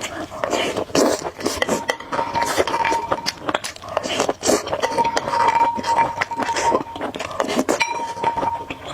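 Utensils clinking and scraping against a bowl or dish during eating, in many short, sharp clicks. A thin steady tone comes and goes three times.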